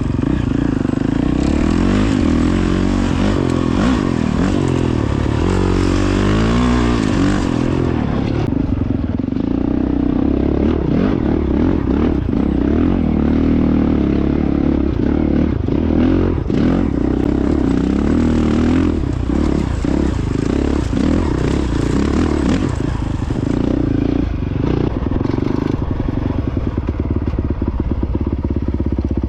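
2022 Honda CRF450X dirt bike's single-cylinder four-stroke engine running under way, revs rising and falling, with scattered knocks and rattles.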